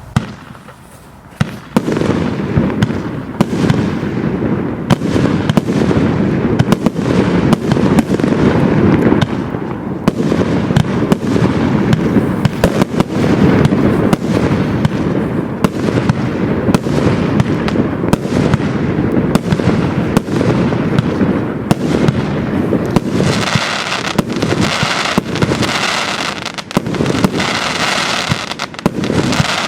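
200-shot firework cake firing in a continuous barrage, with shots launching and bursting in quick succession and a few sharp single cracks in the first seconds. Near the end the barrage turns brighter and higher in tone.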